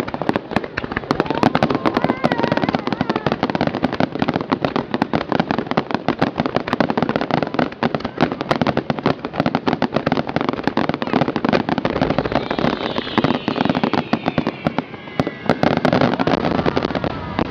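Fireworks finale barrage: a dense, rapid run of bangs and crackles that barely lets up.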